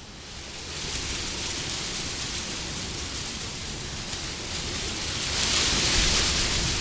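Wind blowing in gusts: a rushing noise that rises from a lull at the start and swells to its loudest gust about five to six seconds in.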